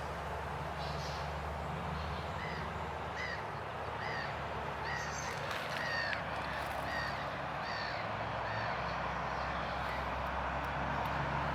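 A bird calling outdoors in a run of short repeated calls, about one or two a second, fading out near the end, over a steady low rumble.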